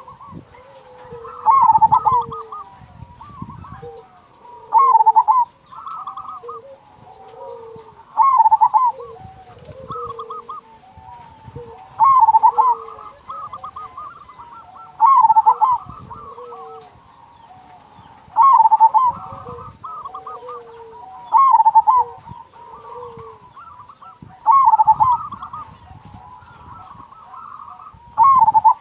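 Zebra dove (perkutut) singing: a loud phrase of quick staccato coos repeated about every three seconds, nine times over, with softer lower coos between phrases.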